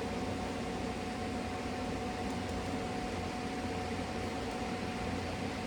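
Steady mechanical hum with a faint constant whine, like a running fan or other motor, with no distinct knocks or clicks.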